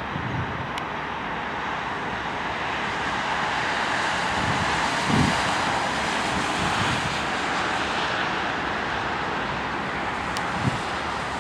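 Norfolk Southern freight train rolling past, a steady rushing noise of wheels on rail that swells a little toward the middle, with a brief low thump about five seconds in.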